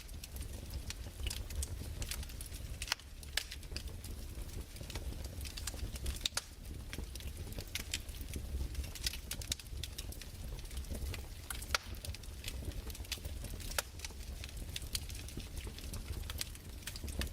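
Crackling fireplace: irregular sharp pops and snaps over a steady low rumble.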